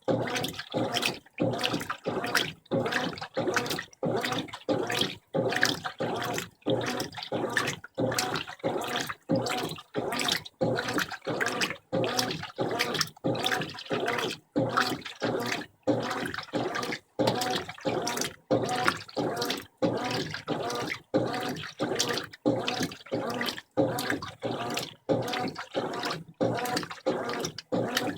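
Brastemp 15 kg top-load washing machine agitating its load in rinse water: water and clothes sloshing in short, regular strokes, about one and a half a second, each cut off by a brief pause.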